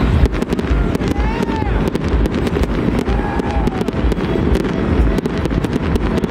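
Fireworks going off in quick succession: a continuous low rumble of booms with many sharp cracks and pops, thickening into rapid crackling in the second half.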